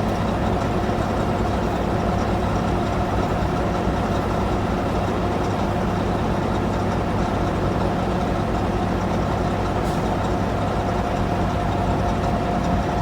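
A heavy engine idling steadily, with a constant tone running through it.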